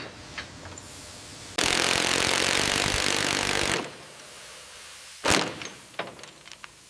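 A power tool runs in one loud burst of about two seconds that starts and cuts off abruptly. About a second and a half later comes a single hard knock, followed by a few light clicks.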